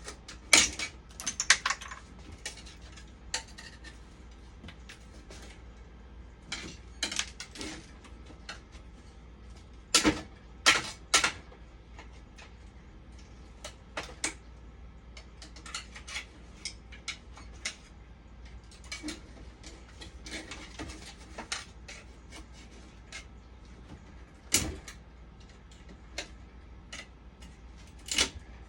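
Scattered metallic clinks and knocks of hand tools and small metal parts being handled, coming in short clusters with pauses between.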